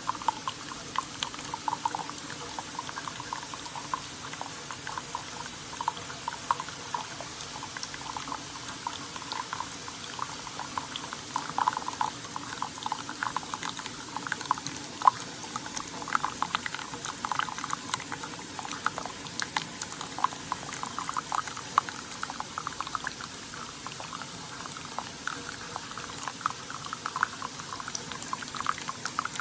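Coffee streaming and bubbling steadily into a cup as a Keurig K-Slim single-serve coffee maker brews, with many small splashes.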